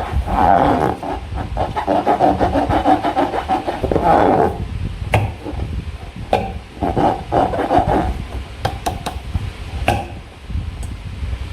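Hands squeezing and rubbing slime in a rubber balloon: rough, squeaky rubbing in bouts, with a few sharp clicks.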